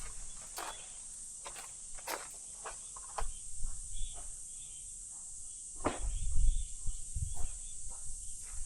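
Outdoor ambience of a steady high hiss with scattered irregular taps and clicks. A louder low rumble with a few knocks comes about six seconds in.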